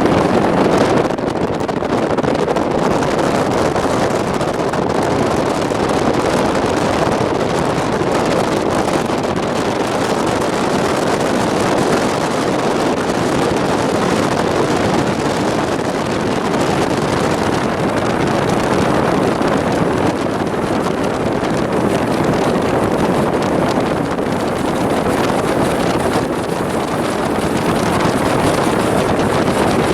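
Steady, loud rushing of wind on the microphone mixed with the running noise of a moving train, with no clear rhythm.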